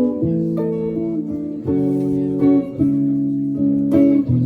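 Acoustic guitar strumming chords between sung verses, the chord changing roughly every half second to second.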